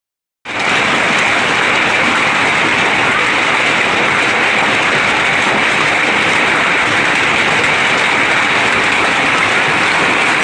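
Heavy storm rain pouring down in a steady, dense hiss, which cuts in abruptly after a half-second of dead silence.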